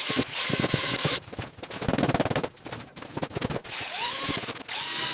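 Power driver running panel fasteners in short, rapid rattling bursts, with sharp knocks and clatter between them.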